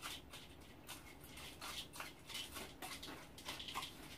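Faint wet chewing and mouth sounds of a person eating with a full mouth: a run of soft, irregular smacks, a few each second.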